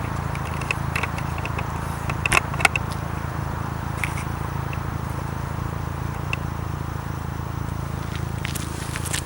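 A 2012 Camaro LS's 3.6-litre V6, through MRT V2 axle-back mufflers, running at a steady note with no revving. A few sharp clicks and crackles stand out about two to three seconds in.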